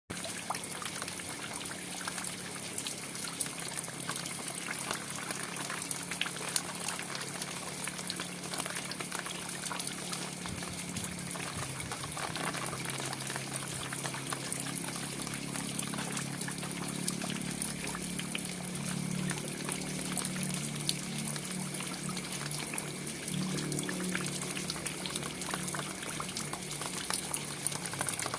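Steady rain falling, with many separate drops ticking and spattering.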